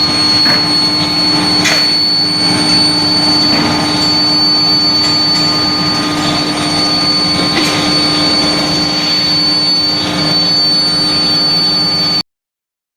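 Steel plate induction heating furnace line running: a steady industrial din with a constant hum and a high-pitched whine, and a few light knocks. It cuts off suddenly near the end.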